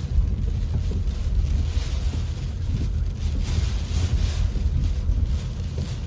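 Typhoon wind buffeting the microphone in a heavy, steady rumble, with gusts rushing and swelling higher up.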